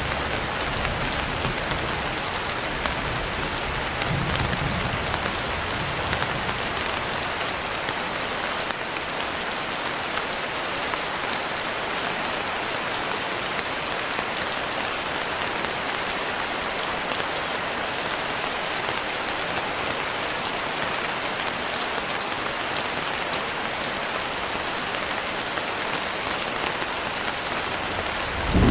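Steady, dense rain hissing evenly, with a low rumble of distant thunder fading out in the first few seconds.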